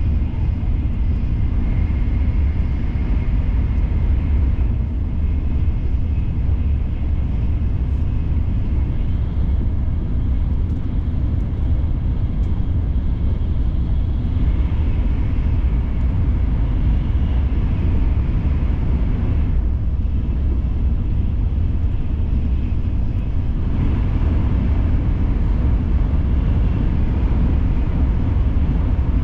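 Shinkansen bullet train running at speed, heard inside the passenger car as a steady low rumble with a faint hiss of air and track noise over it.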